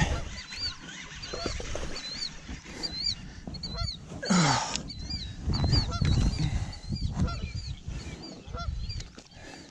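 A bird chirping over and over, about two short high calls a second. Under it is a low wind rumble, with a brief rush of noise about four seconds in.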